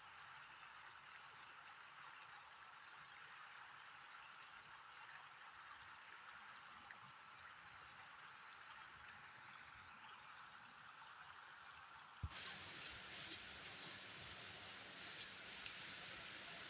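Faint, steady wash of falling or running water, like rain. About twelve seconds in it switches abruptly to a louder, brighter hiss with scattered sharp ticks.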